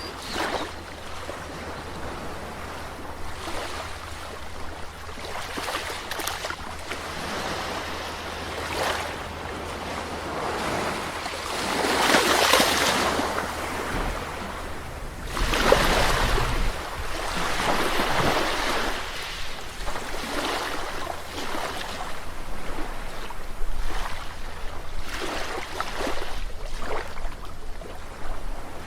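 Ocean waves washing onto a shore in an unbroken hiss, with breakers swelling and fading every few seconds; the two biggest come about twelve and sixteen seconds in.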